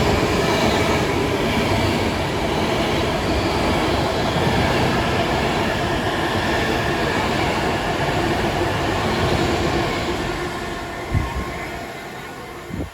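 A train passing at speed: a loud, steady rush of wheels on rail that fades away over the last few seconds, with a single sharp thump about eleven seconds in.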